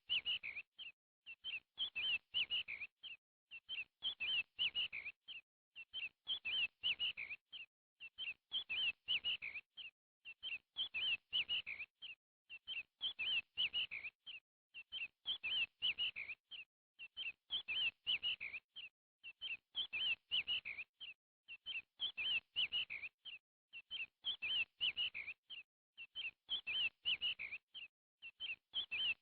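Bird chirping: a short burst of quick, high notes repeated at an even pace about once every two seconds, with silence between bursts.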